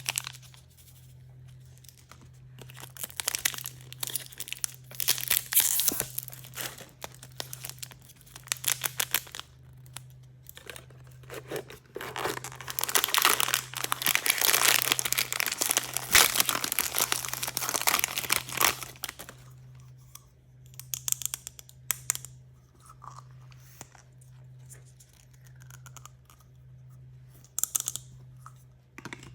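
Toy packaging being torn open and crinkled by hand, in long crackling bursts. Quieter handling with scattered clicks follows in the second half.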